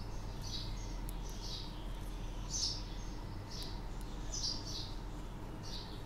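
A small bird chirping repeatedly in short, high chirps, one or two at a time, about once a second, over a steady low hum.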